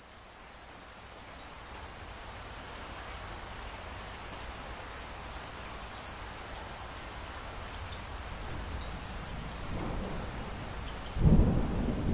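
Steady rain falling, gradually getting louder, then a clap of thunder starting suddenly near the end with a deep rumble.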